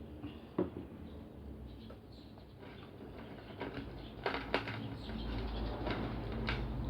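Close-miked eating: chewing and crunching fried food, with sharp crisp clicks about half a second in, several around four seconds in and one near the end, over a low steady hum.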